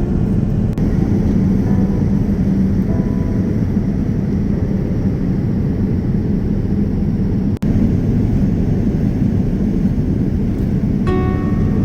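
Jet airliner cabin noise in flight: a steady, low rumble of engines and rushing air, with a brief break about two-thirds of the way through.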